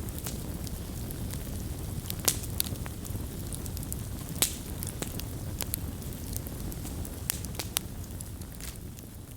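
Wood fire crackling: a steady low rumble of burning wood with sharp pops and snaps throughout, the loudest about two and four and a half seconds in. It grows slightly quieter near the end.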